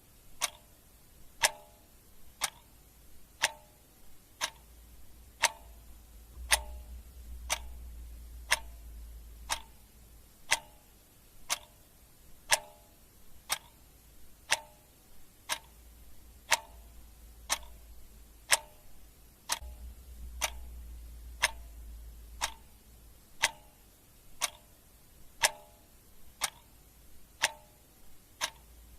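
Clock ticking steadily, about one tick a second, each tick a sharp click with a short metallic ring.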